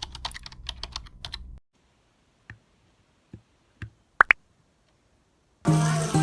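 Fast clicking of typing on a computer keyboard for about a second and a half, then quiet broken by a few single clicks and two sharp, ringing pops about four seconds in. Background music with held notes starts near the end.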